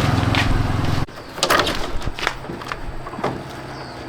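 A steady motor hum that cuts off abruptly about a second in, followed by a few sharp knocks and clatters.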